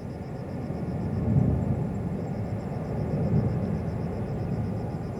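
Distant jet airliner engines rumbling low, swelling about a second in and then holding steady.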